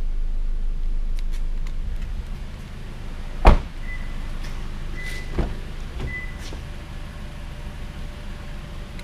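A car door shuts with a loud thud about three and a half seconds in, followed by two lighter thuds, with three short high beeps between them over a low rumble.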